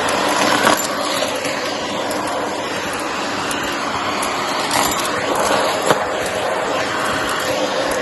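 Shark vacuum cleaner running steadily, with a few clicks and rattles as cardboard bits are sucked up.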